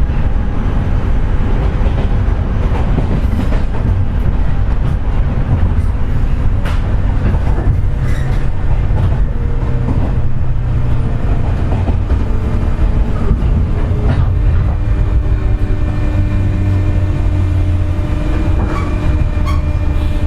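Onboard running sound of a JR West 201 series chopper-controlled electric train: a steady rumble of wheels on rail with a few faint joint clicks, under steady whining tones that drift slightly lower in pitch in the second half. The whine is the jet-like noise that the recordist attributes to electrical pitting of this car's bearings.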